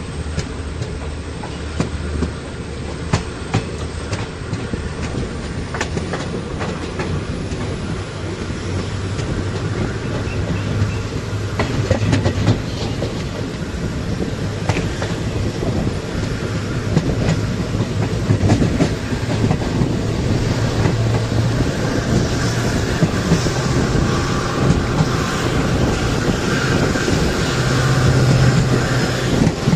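Passenger train coach running on the rails, heard from the coach window: a steady rumble with wheels clicking over rail joints. It grows slowly louder as the train gathers speed.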